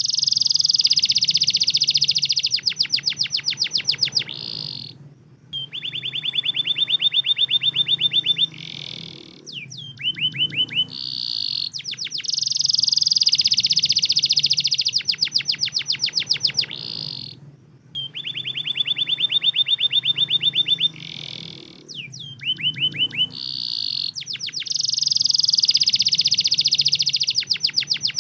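Domestic canary singing: fast trills and rolls of rapid repeated notes, with brief pauses between phrases. The same song sequence repeats about every twelve seconds, a looped lure recording meant to set other canaries singing.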